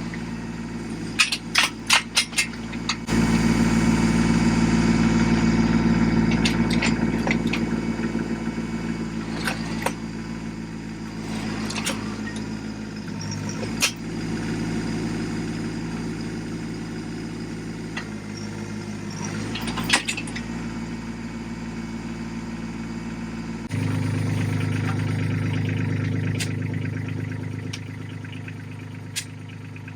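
Tractor engine running steadily, its note and loudness shifting a few times as the load changes, with a quick run of sharp clanks about a second in.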